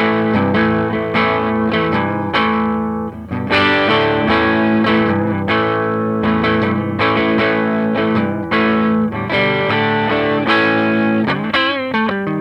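Gibson Les Paul Studio electric guitar played through a Marshall JTM60 valve amplifier: rich chords and notes struck in a steady rhythm, with wavering vibrato notes near the end.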